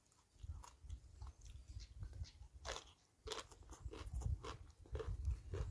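A person chewing a mouthful of shredded green papaya salad, close to the microphone, with irregular crisp crunches of the raw papaya strands.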